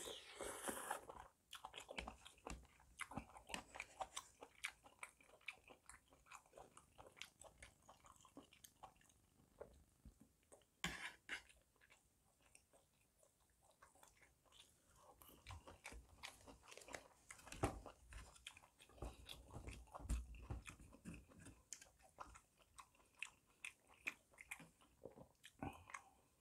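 Quiet, close-up eating of spicy gopchang jeongol (beef intestine hot pot) and rice: a steady run of wet chewing clicks and smacks, with a slurp right at the start and another short, louder burst about eleven seconds in.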